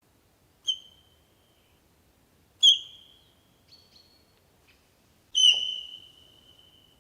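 A series of high, whistled animal calls, four in all, each starting suddenly on one steady pitch and fading away; the last, near the end, is the longest and loudest.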